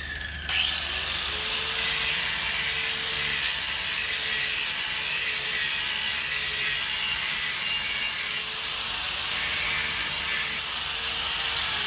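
Angle grinder spinning up with a rising whine, then grinding steadily on the hard steel top of a piece of railroad track with an abrasive disc. It winds down with a falling whine near the end.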